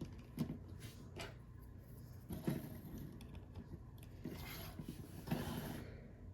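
Hard plastic parts of a Transformers action figure being handled: a few sharp clicks and some scraping as the figure and its gun are moved and fitted together.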